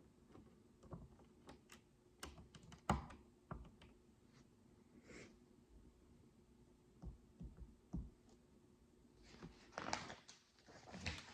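Tiny plastic micro building bricks clicking as they are handled and pressed together: scattered single clicks, a sharper one about 3 s in, and a quick run of clicks near the end.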